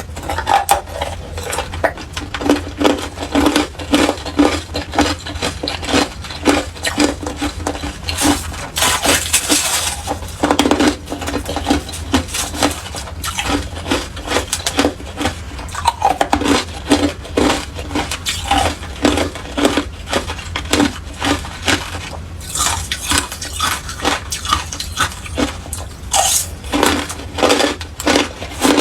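Hard clear ice being bitten and chewed close to the microphone: a dense run of sharp cracking and crunching, with several heavier crunches.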